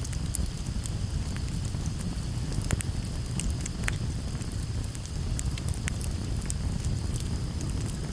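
Campfire burning: frequent sharp crackles and pops over a low, steady rumble of the flames, with a couple of louder pops near the middle.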